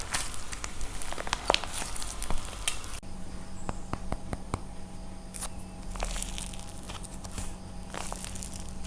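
Dried plaster clay being crushed and cracked by hand, a dense crunchy crackling of many small sharp snaps. About three seconds in the background changes abruptly and the crackles become sparser single clicks, growing denser again near the end.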